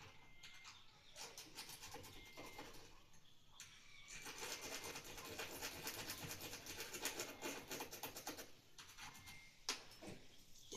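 Faint scratching and rubbing with many fine clicks, louder from about four seconds in and easing off near the end.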